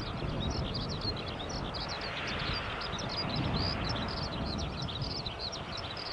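ATR42-600's Pratt & Whitney PW127M turboprop engines running at taxi power in the distance: a steady rumble and propeller noise that swells a little and then eases. Over it runs a constant chorus of many quick, high chirps from small creatures in the grass.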